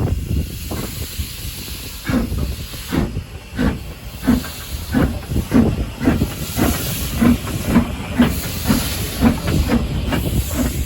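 Steam locomotive pulling away: its exhaust beats come about two a second and gradually quicken, over a steady hiss of steam.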